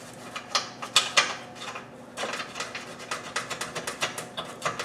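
Metal parts and hand tools clinking: a few sharp clinks in the first second or so, then a quick run of light clicks from about two seconds in.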